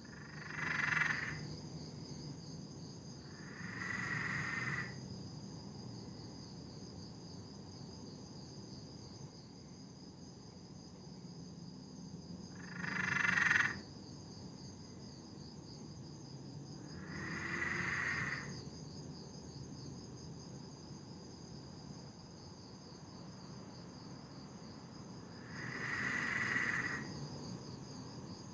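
Peron's tree frog calling: five loud cackling calls, each about a second long and several seconds apart, over a steady high insect drone.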